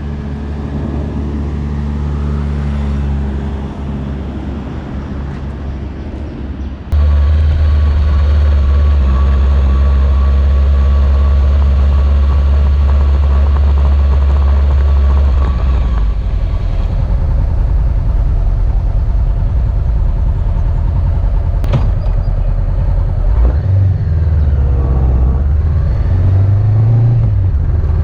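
Motorcycle engine running while riding, under heavy wind rumble on the microphone. The sound jumps suddenly louder about seven seconds in.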